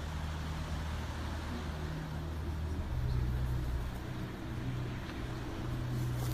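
Low, steady engine hum that shifts up slightly in pitch about three seconds in.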